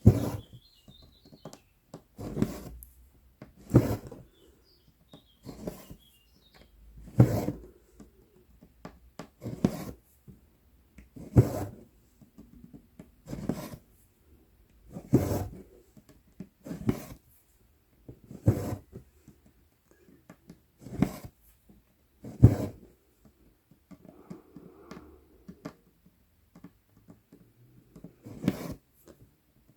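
Cross-stitch needle and embroidery floss pulled through 11-count Aida cloth, each stitch a short rasping pull, about one every one and a half to two seconds.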